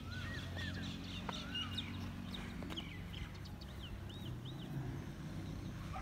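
Small birds chirping, many short rising-and-falling chirps scattered throughout, over a steady low rumble.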